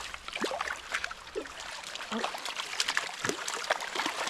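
Stream water trickling, with irregular splashing.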